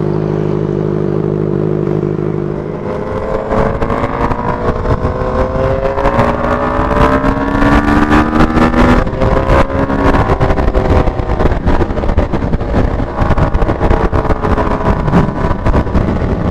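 Benelli TNT 600i inline-four running through a Two Brothers aftermarket exhaust canister. The engine holds a steady note, then from about three seconds in it revs and accelerates, its pitch rising in repeated climbs, over a loud rush of wind on the microphone.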